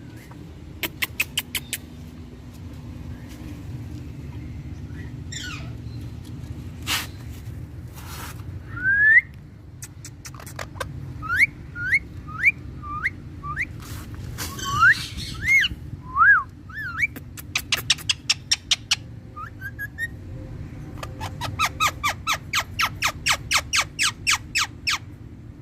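Indian ringneck (rose-ringed) parakeet calling: short rising whistled notes in the middle, with sharp, harsh calls before and after that come in quick runs of about four or five a second near the end. A steady low hum runs underneath.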